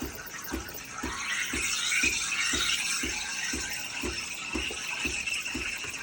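Home espresso machine steaming milk: the steam wand hisses into the cup, getting stronger about a second in, while the machine knocks low and evenly about twice a second.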